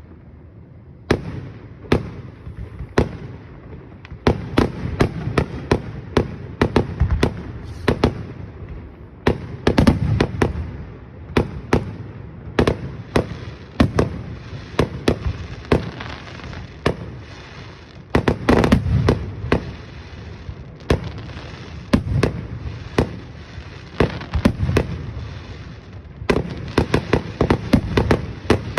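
Aerial fireworks display: a dense run of shell bursts, sharp bangs with rumbling echoes between them, coming in quick clusters with several bangs a second near the end.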